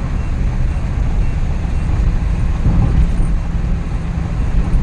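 Steady in-cabin drone of a Suzuki Every DA64V van on the move: its freshly rebuilt K6A three-cylinder engine running along with tyre and road noise.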